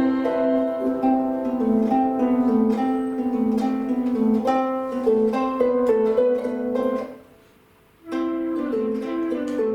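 Chamber ensemble playing: plucked harp notes moving over held, wavering string tones. The music falls away almost to silence for about a second near the end, then comes back in.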